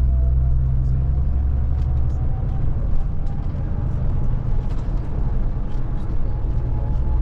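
Scania Touring coach heard from inside the cab while driving: a heavy low engine and road drone with a thin whine that slowly rises in pitch as the coach picks up speed. The low drone eases a couple of seconds in and comes back fuller near the end, with faint rattles and clicks throughout.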